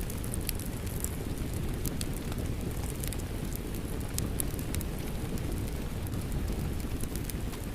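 Rain and a crackling wood fire: a steady low rumble of rain noise, with frequent short, sharp crackles from the fire.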